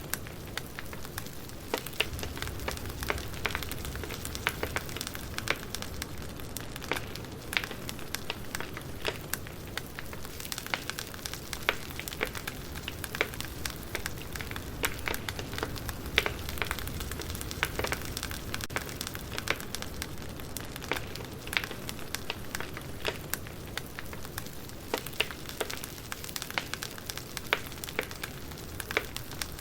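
Wood fire crackling, with irregular sharp pops and snaps over a low, steady rumble of burning logs.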